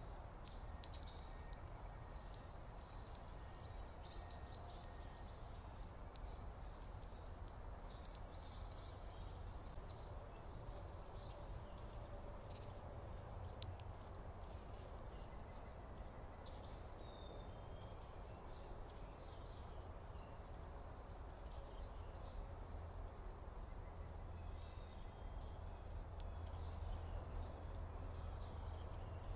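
Faint, scattered bird chirps and calls over a steady low background rumble.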